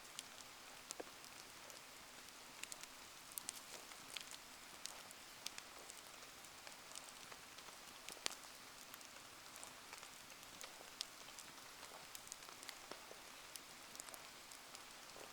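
Wood bonfire burning in steady rain: an even hiss of rain with many scattered sharp ticks and crackles, one louder pop about eight seconds in.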